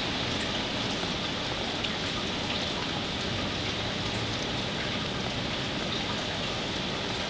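Hurricane Sandy's rain falling steadily, a dense, even hiss with a few scattered drop ticks.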